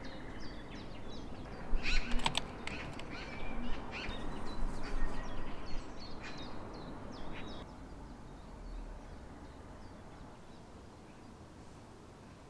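Birds chirping and singing in many short, high calls, fading over the last few seconds. A few sharp clicks come about two seconds in and are the loudest sounds.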